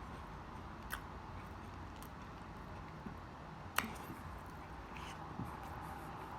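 Quiet chewing with a couple of sharp mouth clicks, one about a second in and a louder one near the middle, over a steady low hum.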